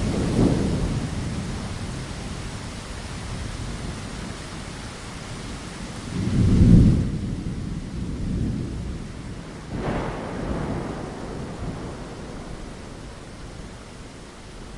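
Rain falling against a window, with thunder rumbling: one roll right at the start, the loudest about six and a half seconds in, and another about ten seconds in. The higher rain hiss thins out after the loudest roll.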